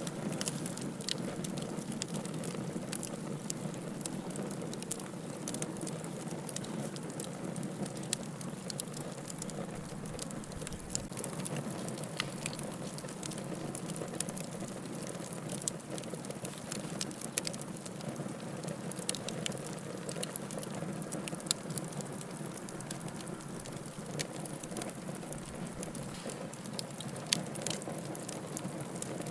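Wood fire burning in a fireplace: a steady low rush of flames with frequent small crackles and pops of burning firewood, a few sharper pops standing out.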